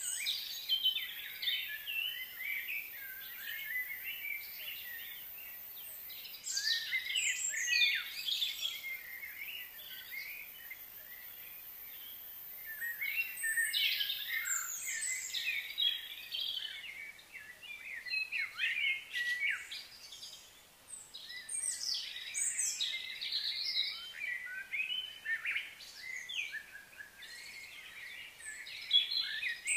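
Birds chirping and calling in overlapping bouts of quick high notes and down-slurred whistles.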